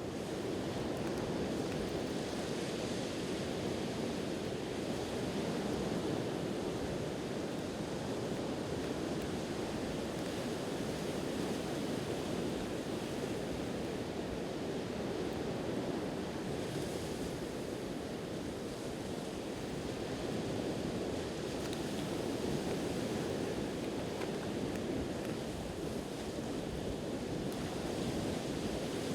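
Sea surf washing on the shore: a steady, continuous rushing.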